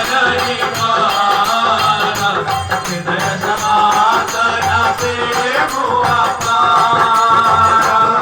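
Instrumental opening of Indian devotional bhajan music: a harmonium playing the melody over dholak drum beats and jingling hand percussion.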